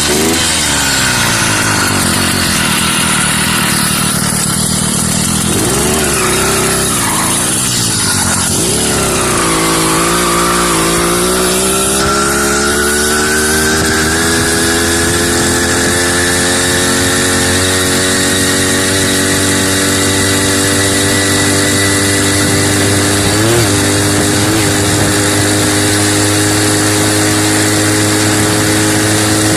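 A 66cc two-stroke motorized-bicycle engine kit running hard: its pitch wavers up and down for the first ten seconds or so, then climbs steadily for several seconds and holds at high revs, as under acceleration to top speed. The engine is running rich, on the stock jetting.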